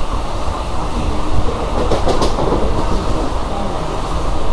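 Running noise of a suburban local train at speed, heard from inside the carriage: a steady rumble of wheels on rails, with a brief cluster of sharp clacks about two seconds in.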